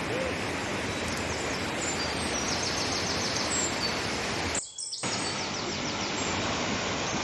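Steady rush of flowing river water, with birds chirping and giving quick high trills over it. The sound cuts out for about half a second a little past halfway.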